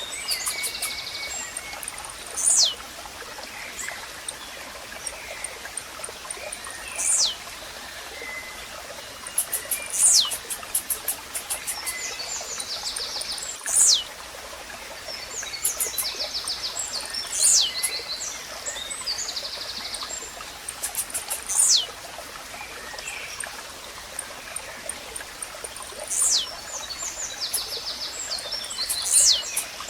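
Blue-black grassquit (tizil) songs repeating every few seconds: short, sharp, high calls that drop steeply in pitch. Other birds chirp and tick rapidly between them over the steady sound of running water.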